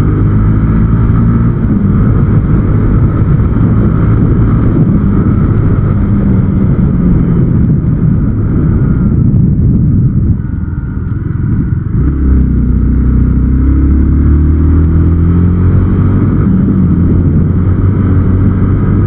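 Motorcycle engine running at road speed under steady wind and road noise. About ten seconds in it eases off briefly, then the engine note rises as the bike accelerates.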